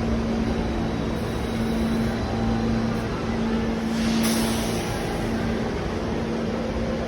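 New York City subway train running, a steady low rumble with a constant hum, and a brief hiss about four seconds in.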